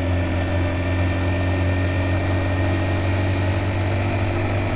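Motorbike engine running steadily while riding, a constant low hum with no change in speed.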